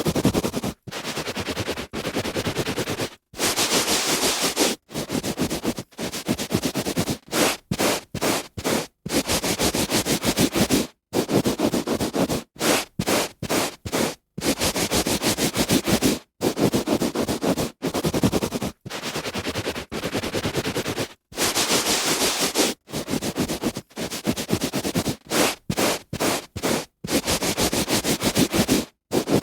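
A hand rubbing back and forth on a carpet, in strokes of scratchy friction noise. Some strokes last about a second and some come in quick short runs, with brief silent gaps between them.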